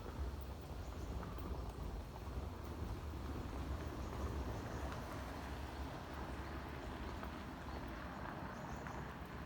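Atlantic Forest ambience: a steady low rumble under a dense grainy hiss, with a few faint, brief bird notes.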